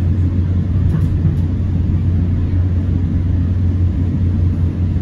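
Steady low rumble inside a moving SunRail commuter train coach as it runs along the track.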